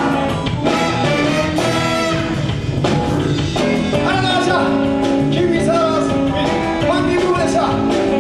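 A live band playing, with singing over drums and instruments in a steady beat.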